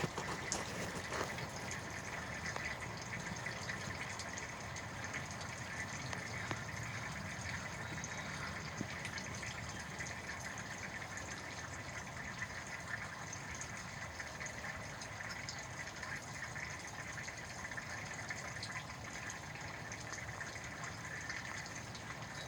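Steady outdoor background noise, an even hiss with a faint high hum over it, with no distinct events.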